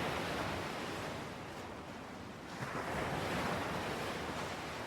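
Ocean waves washing on a shore, a steady surf that ebbs about two seconds in and swells again soon after.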